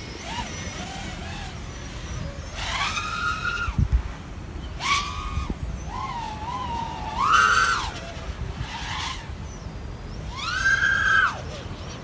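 Whine of a 3-inch FPV quadcopter's brushless motors and propellers in flight, climbing and falling in pitch with about five bursts of throttle. The ESCs run 48 kHz PWM on Betaflight 3.5.1 with Andy RC's PID tune.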